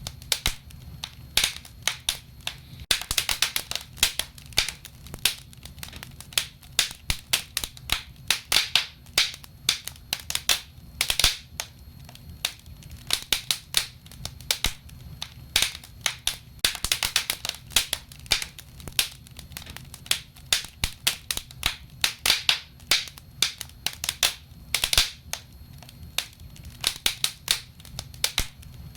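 Wood fire crackling and popping in a fireplace: many irregular sharp snaps, some in quick clusters, over a low steady rumble of the flames.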